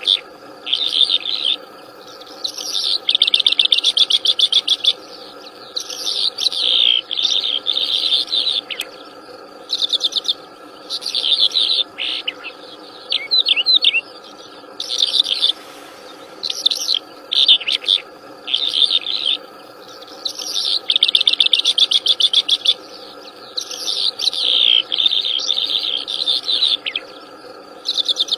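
Wild songbird singing loudly in a long run of varied phrases, chirps and fast trills, each phrase lasting about one to two seconds with short pauses between, over a steady faint drone.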